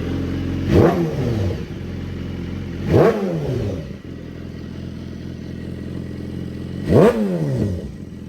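Superbike engine idling, with the throttle blipped three times: each rev rises sharply and falls straight back to idle.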